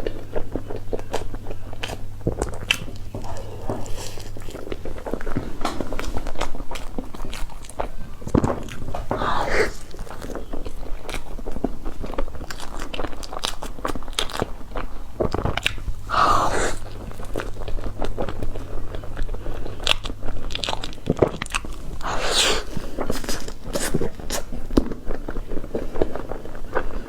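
Close-miked eating of cake: bites and chewing with many small wet clicks and smacks of the mouth.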